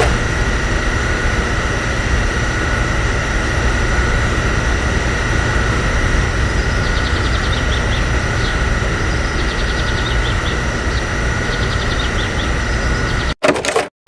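A small motor running steadily, with a constant whine over a dense rattle, that cuts off suddenly near the end.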